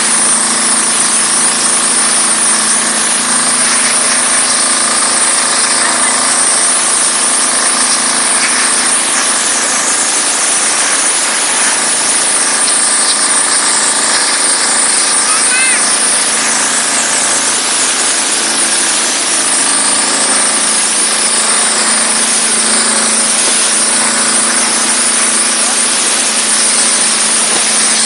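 Diesel-engine-driven high-pressure washer and steam cleaner running steadily, its engine humming under a loud, continuous hiss from the high-pressure jet.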